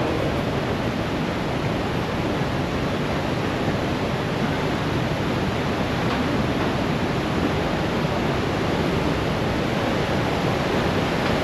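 Steady, dense rush of a huge waterfall, the Iguazu Falls, pouring down without a break.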